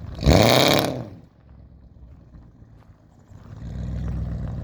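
BMW 740i's M62 V8 through a straight-piped dual exhaust with no cats, X-pipe or resonators: one short, loud rev at the start, then a low steady rumble from about three and a half seconds in.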